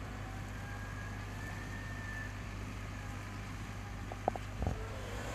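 Case IH Puma 230 CVX tractor working a field with a cultivator-seeder behind it: a steady low engine drone, with a few short knocks about four seconds in.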